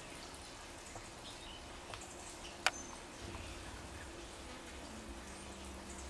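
Quiet outdoor ambience with faint, short bird chirps and one sharp click about two and a half seconds in.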